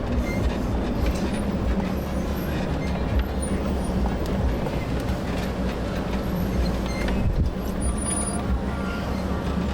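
4x4 pickup truck crawling down a steep, loose-rock trail: the engine running low under steady rumble, with the tyres crunching and knocking over stones.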